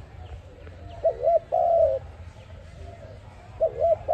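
Spotted dove (tekukur) cooing: each call is two quick rising-and-falling notes then a longer held coo. One full call comes about a second in and the next begins near the end, repeating about every two and a half seconds.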